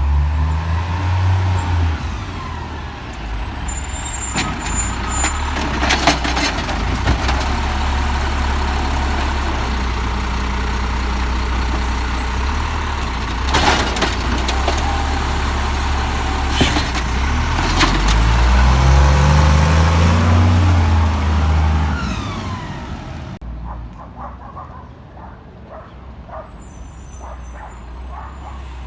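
Peterbilt 320 garbage truck with an Amrep Octo automated side loader: its diesel engine runs loud and revs up and down, with a few sharp bangs along the way. Near the end the engine drops back to a quieter idle with light ticking.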